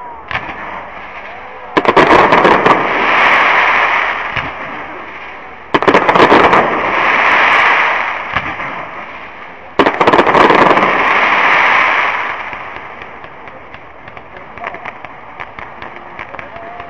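Aerial fireworks going off in three big volleys about four seconds apart. Each starts suddenly and becomes a couple of seconds of dense crackling that fades away. Scattered smaller crackles follow near the end.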